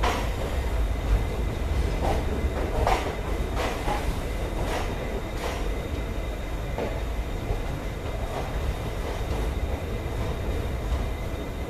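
Matsyagandha Express passenger coaches rolling slowly into a station, heard from the coach door: a steady low rumble with sharp clicks of the wheels over rail joints, about one a second at first and thinning out as the train slows.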